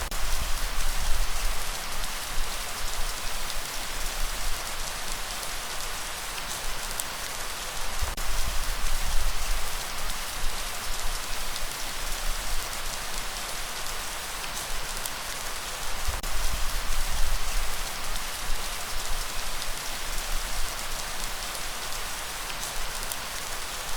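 Steady rain falling on a surface, an even hiss across the whole range, with a low rumble that swells and fades about every eight seconds.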